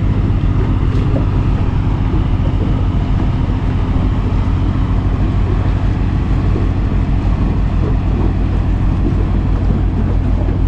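Motorboat engine running steadily under way: an even, unchanging drone with water and air rush.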